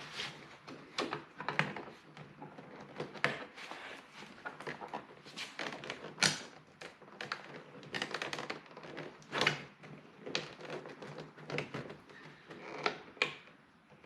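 Irregular clicks, taps and knocks of plastic interior door trim and tools being handled while the door panel is worked loose.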